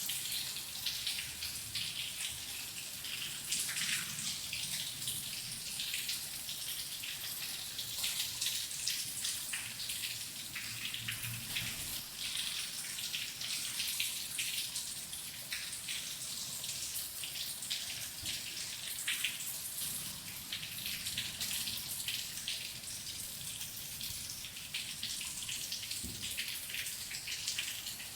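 Heavy rain falling steadily: a constant hiss thick with the tiny ticks of individual drops.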